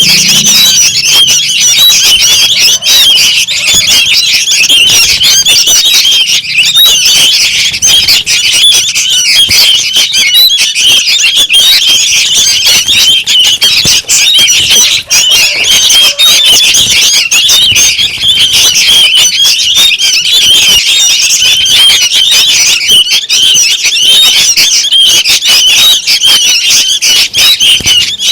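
A group of sooty-headed bulbul (kutilang) chicks calling noisily: a loud, unbroken chatter of rapid high chirps.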